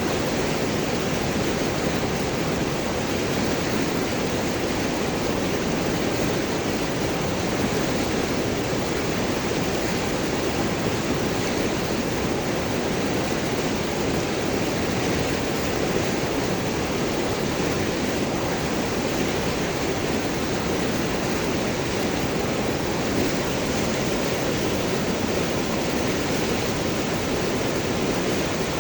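River water flowing and gurgling over large rocks, a steady unbroken rush.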